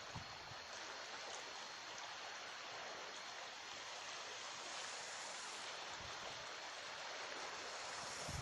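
Steady rush of sea surf, with a few soft low thumps near the start and the end.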